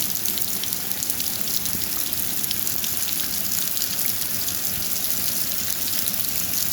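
Steady rainfall, with many small drops ticking against a surface.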